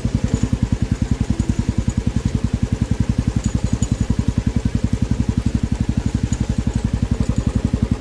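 Royal Enfield motorcycle engine running at a low, steady speed, its exhaust beating evenly at about seven beats a second.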